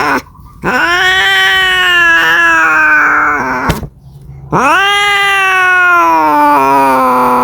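A cat yowling in long, drawn-out calls. Two full calls of about three seconds each rise and then slide down in pitch, with short breaks between them, and the end of an earlier call is heard at the very start. The calls are the caterwaul of a cat calling for a mate.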